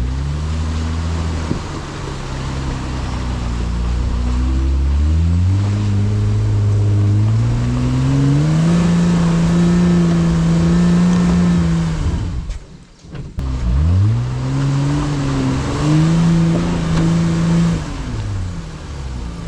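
Off-road 4x4's engine revving hard under load, its pitch climbing steadily and then held high for several seconds. It drops out for about a second, then revs up again and holds before easing off near the end.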